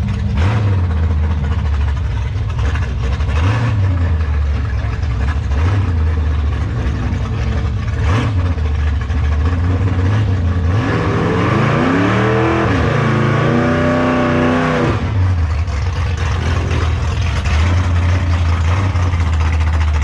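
Car engine idling with a low, pulsing rumble. About eleven seconds in, an engine revs up with rising pitch, holds high for a few seconds and cuts off about fifteen seconds in.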